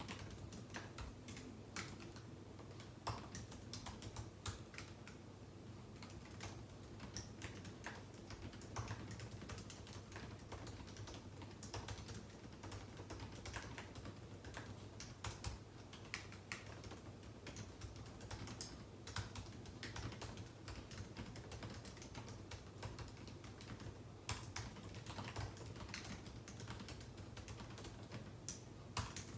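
Typing on a computer keyboard: a stream of quick, irregular key clicks with an occasional louder keystroke, over a steady low hum.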